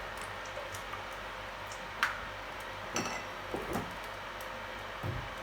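A few light clinks and knocks of kitchenware, one about two seconds in and a few more around three to four seconds, over a steady low hiss and hum.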